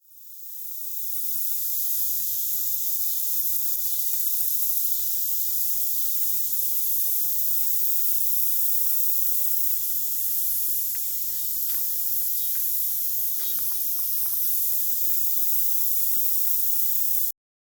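Steady high-pitched hiss fading in over the first second or so, with a few faint short chirps about two-thirds of the way through, then cutting off suddenly.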